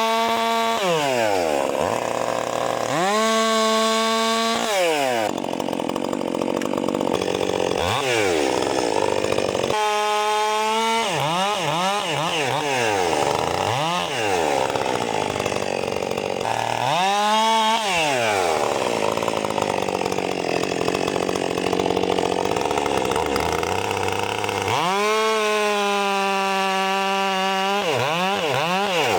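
Ported Stihl MS 400 C two-stroke chainsaw cutting wood. It revs to a steady high pitch at full throttle, free of the wood, for a second or two at a time, about five times. In between it runs rougher and lower as the chain is loaded in the cut.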